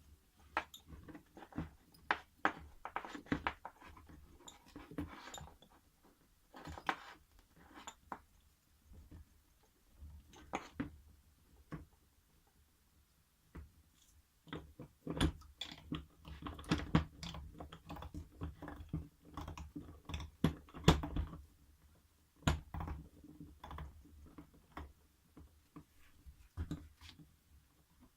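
Irregular clicks, knocks and rustling of small hard parts being handled by hand, coming in clusters with short pauses.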